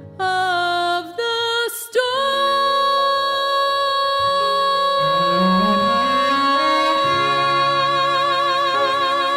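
Music: a woman's singing voice gives a few short notes, then holds one long final note from about two seconds in, its vibrato widening toward the end, over sustained instrumental chords.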